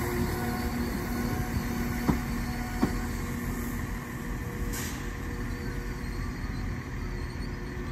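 Trains moving slowly through a station: low rumble of a Transport for Wales diesel unit pulling away and a yellow Merseyrail electric unit rolling into the platform. A steady low hum fades out about halfway, and wheels click twice over rail joints a few seconds in.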